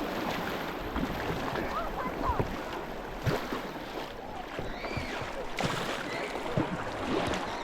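Moving river water rushing steadily, with splashing and gurgling around a kayak.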